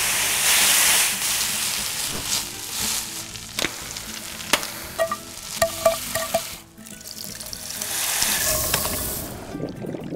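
Hot oil sizzling in a paella pan as chunks of monkfish sear, loudest in the first second. In the middle a wooden spoon stirs sofrito through the oil with a few sharp clicks and taps, and the sizzling swells again near the end.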